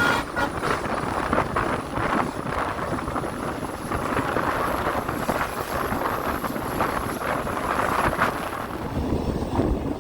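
Passenger train running along the track, a steady rumbling rush with wind buffeting the microphone.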